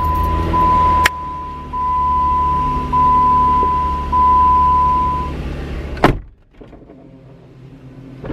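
A car's warning chime beeps repeatedly over a low rumble inside the car, with a click about a second in. The chime stops, and just after six seconds a car door shuts with a loud thud, after which it is much quieter.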